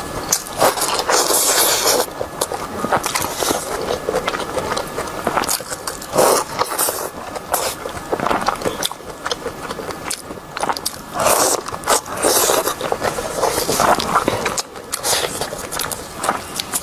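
Close-miked mukbang eating sounds: a person chewing and biting into food, in irregular bursts.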